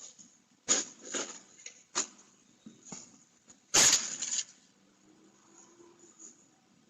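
A few separate sharp knocks and clatters, the loudest cluster about four seconds in.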